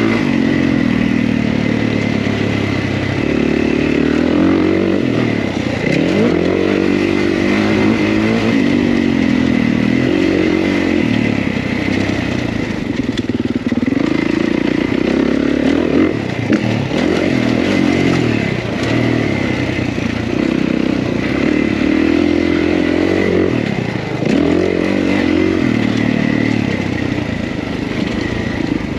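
Kawasaki KX450's single-cylinder four-stroke engine revving up and falling back again and again as the dirt bike is ridden, the throttle opening and closing every second or two.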